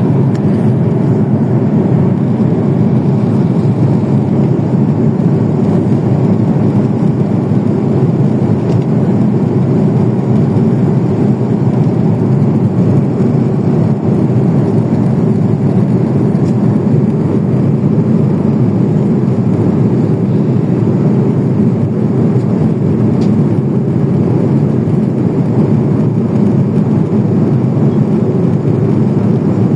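Steady engine and airflow noise inside an aircraft cabin in flight: a constant low rumble with no rhythm and no change.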